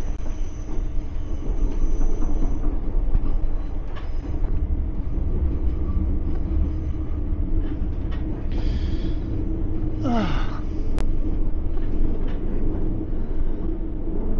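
Train running with a steady low rumble. A short hiss comes about nine seconds in, and a brief sound sliding down in pitch just after it.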